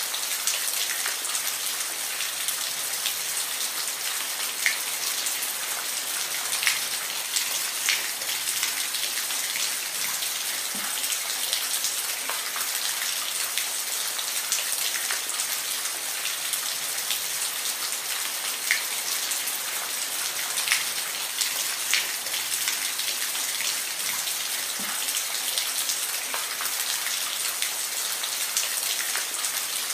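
Steady rain falling, a constant hiss with scattered louder drops ticking on a surface.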